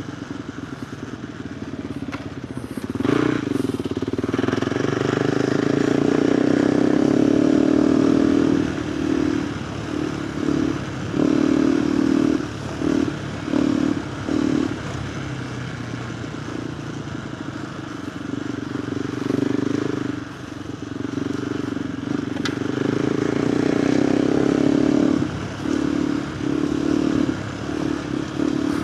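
KTM 390 Adventure R's single-cylinder engine through a Norifumi Whoops stainless slip-on exhaust, under riding load. It pulls harder over the first several seconds, then the throttle opens and shuts in a string of short bursts. After a steadier stretch it pulls again and ends in more on-off throttle bursts.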